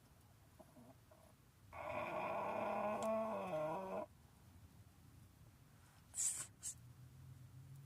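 Dog snoring: one long, buzzy, pitched snore of about two seconds, its pitch dipping near the end. Two short hissy sounds follow a couple of seconds later.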